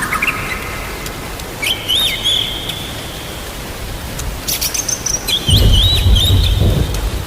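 Steady rain hiss with a songbird's short chirps twice, and a low rumble of thunder swelling over the last couple of seconds.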